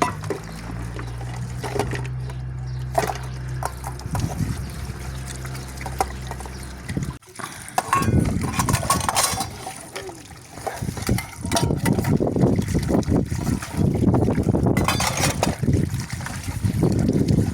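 Water running and splashing as dishes are washed by hand, with short clinks and knocks of dishware. For the first several seconds a steady low hum runs underneath, and it cuts off abruptly about seven seconds in.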